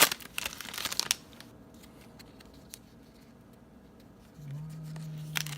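Wrapper of a baseball card pack torn open and crinkling for about the first second, followed by faint handling of the cards.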